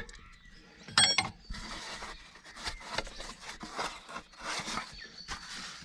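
Metal parts being handled: one sharp ringing metallic clink about a second in, then a run of short irregular scraping and rubbing sounds of metal moved against metal.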